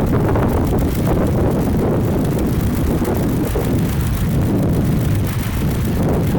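Strong wind buffeting the camera's microphone: a loud, steady low rumble with no clear rhythm.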